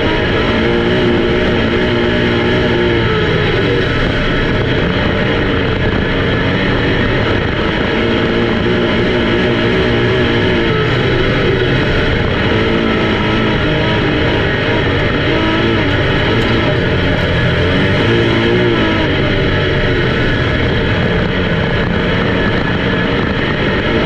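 Race car engines running on the track: a loud, steady din with engine notes that rise and fall every few seconds as cars pass. Music is mixed in underneath.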